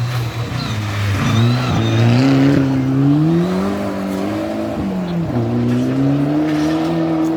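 Rally car engine at full throttle, its revs climbing, dropping sharply about five seconds in, then climbing again.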